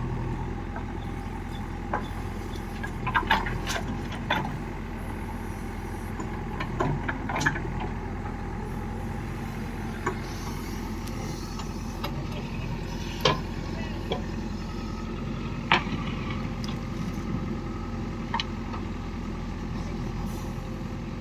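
Diesel engine of heavy farm machinery running steadily at low revs, with scattered short knocks and clanks over the engine sound.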